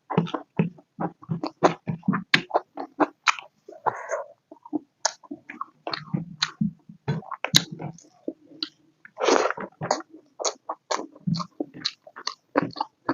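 Close-miked chewing and wet mouth sounds of a person eating pork and potato curry with rice: rapid smacks and clicks several times a second, with one longer noisy sound about nine seconds in.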